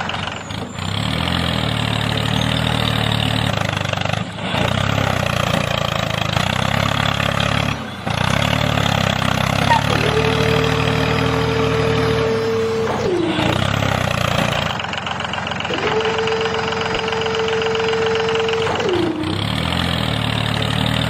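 Tractor engine running steadily with a low, even drone, with brief dips about 4 and 8 seconds in. Twice, from about 10 and 16 seconds in, a steady whine holds for about three seconds and slides down in pitch as it stops.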